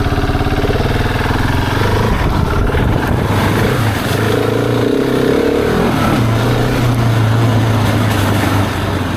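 Husqvarna 701's single-cylinder engine running while riding, its revs rising and falling several times.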